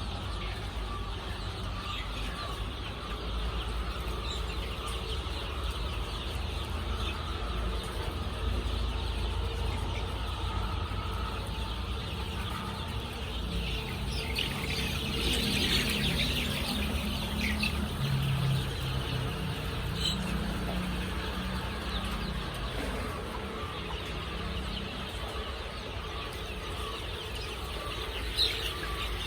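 Flock of layer chickens clucking and chirping, with wings flapping, over a steady low rumble; the calling is busiest about halfway through.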